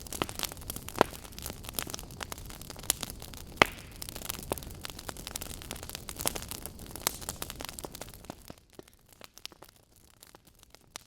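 Wood fire crackling: frequent sharp pops and snaps over a soft hiss. It fades away about three quarters of the way through, leaving near silence with a few faint pops.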